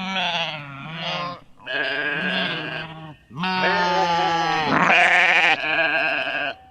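Sheep bleating three times: a call already under way ends about a second and a half in, a shorter bleat follows, then a long wavering bleat runs until near the end.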